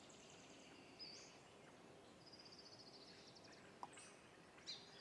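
Near silence: faint background hiss with distant birds chirping and trilling, and a couple of soft clicks near the end.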